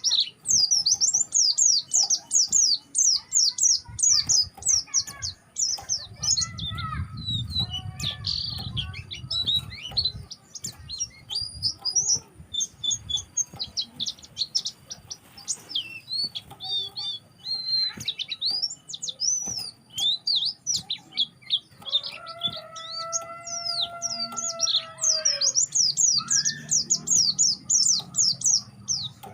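White-eyes (pleci) twittering, a dense run of rapid, high-pitched short chirps. A low rumble comes in near the start, and two-thirds of the way through a lower held tone with overtones sounds for about three seconds.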